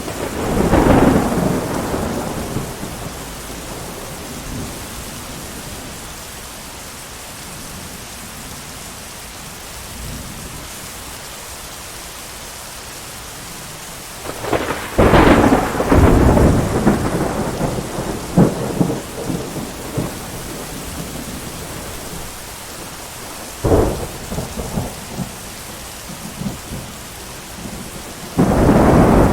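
Thunderstorm: steady heavy rain with rolls of thunder. One clap about a second in, a long rolling peal around the middle, a short sharp crack a few seconds later, and another clap starting near the end.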